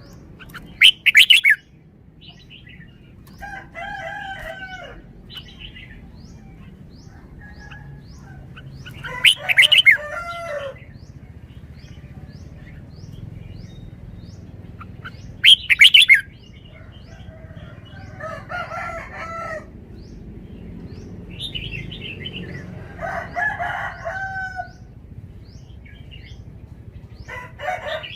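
Red-whiskered bulbul singing loud, short song phrases three times. Between them, chickens call and a rooster crows in the background.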